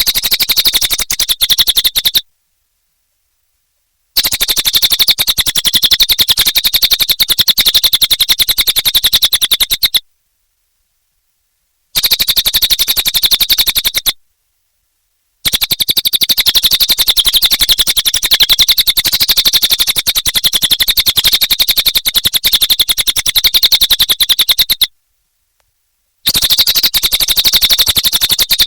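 Cililin songbird singing long, very rapid chattering trills, high in pitch, in five runs of two to nine seconds broken by short complete silences.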